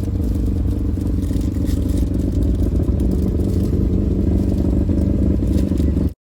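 A car engine running loudly close by: a steady low rumble with some rattle. It cuts off abruptly near the end.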